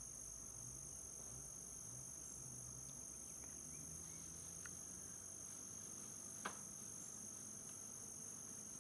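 An insect trilling on one steady high-pitched note, with a single sharp click about six and a half seconds in.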